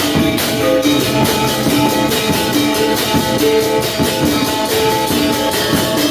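Balinese gamelan gong ensemble playing: bronze metallophones and gongs ring held pitched notes over a fast, dense run of struck strokes.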